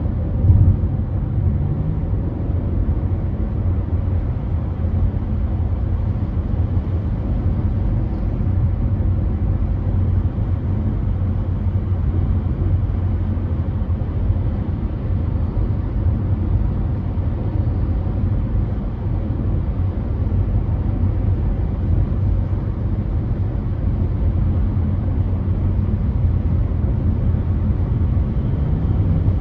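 Car driving on a freeway: a steady low rumble of road, tyre and engine noise with no change in pace.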